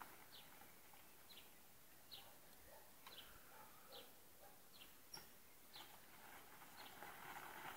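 Near-quiet background with a bird repeating a short, faint, falling chirp about once a second.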